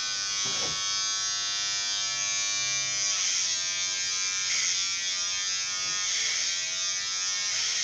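Electric hair clippers buzzing steadily while cutting hair, with brief dips in pitch every second or so.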